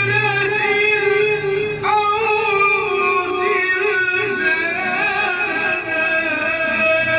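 A man's voice chanting Quranic recitation in a long melismatic line, holding drawn-out notes with wavering ornamental turns and stepping to a new pitch about two seconds in.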